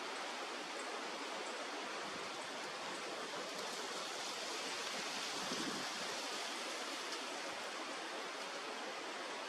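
Steady rushing of flowing river water, with a slight swell about halfway through.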